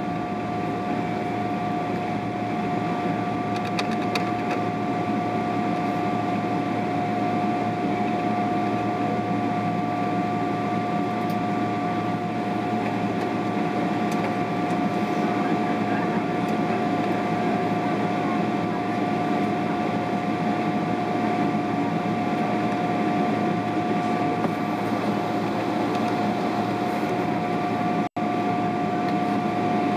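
Steady cabin drone inside a Boeing 777-300ER on the ground before takeoff, from its GE90 engines at idle and the air-conditioning, with a steady whine running over the rushing noise. The sound cuts out for an instant near the end.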